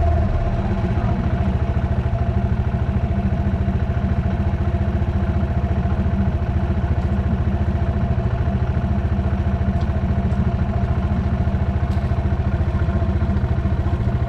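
Dirt bike engine idling steadily, settling down from slightly higher revs in the first second.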